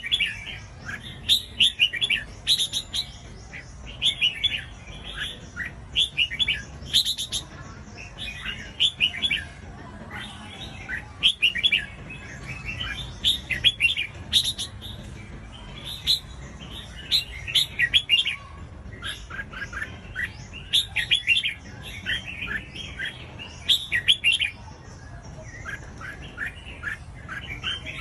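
Red-whiskered bulbul song: short, quick, chirpy phrases repeated again and again with brief gaps between clusters.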